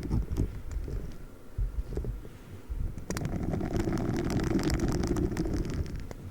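Spiky rubber sponge rubbed and squeezed against the microphone: dense rumbling rustle with scattered scratchy ticks, easing off for a couple of seconds about a second in, then picking up again.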